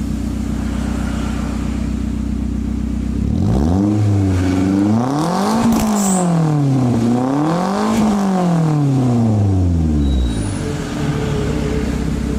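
Toyota Avanza engine idling through its exhaust, then revved up twice, rising and falling in pitch with a dip between, before settling back to a steady idle near the end.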